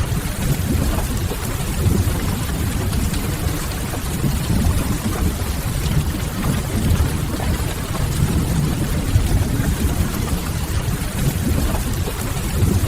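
Steady rain ambience under a deep, even low rumble, unchanging throughout.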